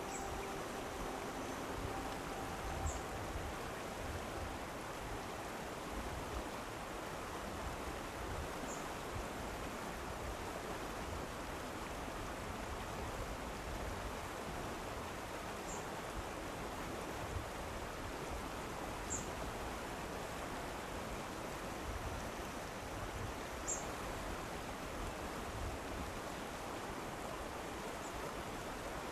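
Steady rushing of running water, like a stream, with brief high ticks every few seconds.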